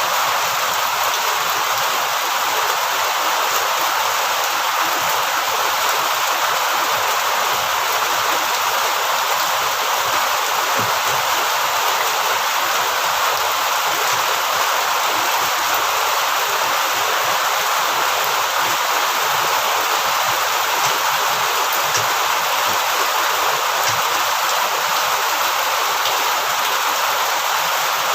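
Heavy rain falling steadily: an even, unbroken hiss with no let-up.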